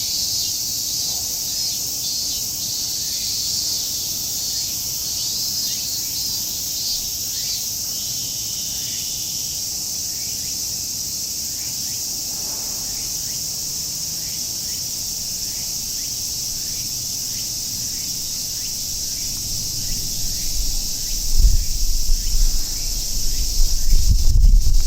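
A chorus of cicadas buzzing steadily and densely, with faint short bird chirps repeating over it. From near the end a low, irregular rumble comes in and becomes the loudest sound.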